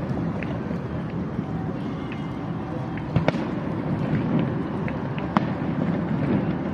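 Fireworks going off: a continuous low rumble of bursts with sharp cracks scattered through it, the loudest bangs about three seconds in and about five and a half seconds in.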